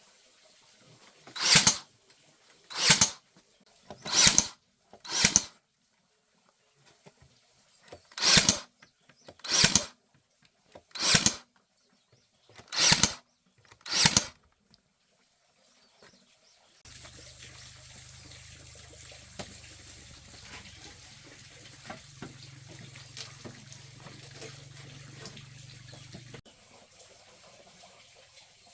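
Nine short rasping strokes, each about half a second long, in a group of four and then a group of five. From about halfway through they give way to a quieter steady hiss with a low hum that stops shortly before the end.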